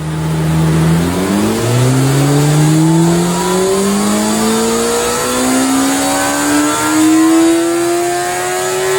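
CFMOTO 500SR's 500 cc inline-four engine on a chassis dyno during a power run. It holds a steady note for about a second, then the pitch climbs steadily as the revs rise under load.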